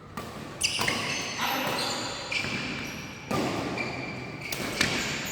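Badminton play on an indoor court: a quick, uneven string of sharp racket-on-shuttlecock hits mixed with short, high squeaks of shoes on the court floor.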